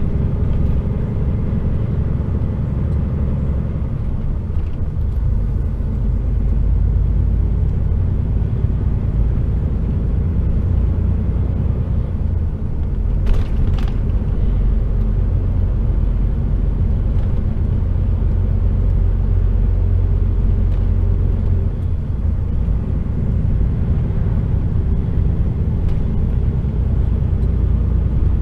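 HGV container truck running along the road: steady deep diesel engine and road rumble. There is a single short knock about 13 seconds in.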